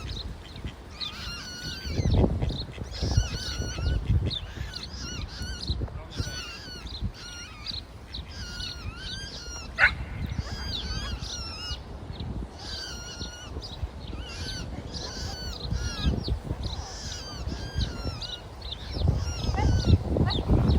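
Young waterfowl chicks peeping over and over, short high calls in quick runs, over a low rumble, with one sharp click about halfway through.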